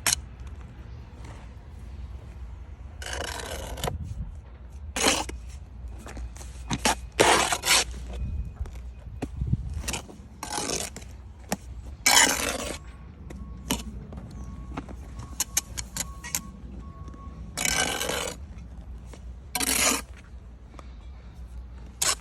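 Bricks knocking and scraping against one another: a run of sharp clinks and short scrapes lasting up to a second each, irregularly spaced, over a steady low rumble.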